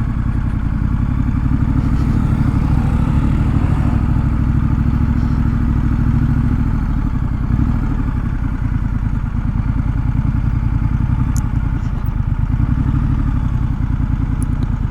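Motorcycle engine running steadily at low revs, with a dense, even low pulsing.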